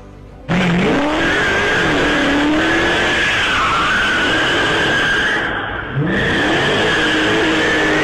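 Car engine revving up with tyres squealing over loud tyre noise, starting abruptly about half a second in, easing briefly around five and a half seconds, then starting again with another rev.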